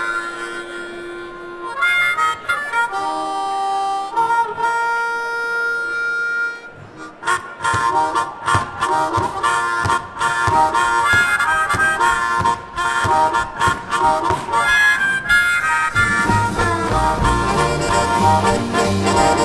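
Live blues band intro: a harmonica plays long held notes alone, then the band comes in with a steady swinging rhythm about seven seconds in, and a bass line joins near the end.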